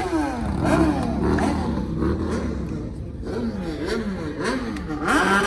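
Car engines revving over and over, the pitch dipping and climbing in quick succession, with a rapid run of short revs a little past the middle.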